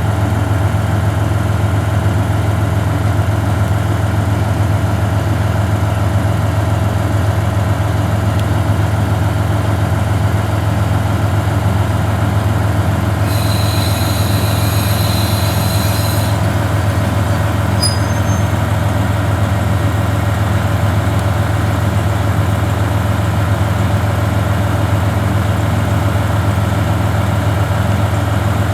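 KiHa 40 diesel railcar's engine idling steadily with a deep, even hum. About halfway through, a high electronic tone sounds for about three seconds, followed a little later by a couple of brief faint tones.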